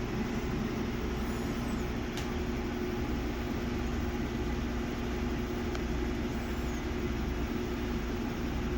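Samsung WA50R5200AW top-load washing machine running steadily, a constant motor hum over a low rumble, near the end of its cycle with a light, unbalanced load of one pair of pants.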